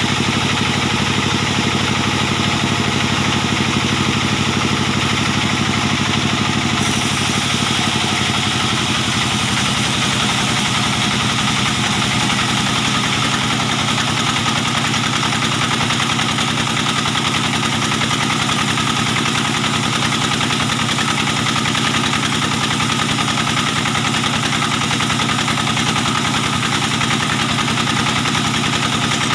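Stationary diesel engine driving a sawmill band saw, running steadily. A higher hiss joins it about seven seconds in.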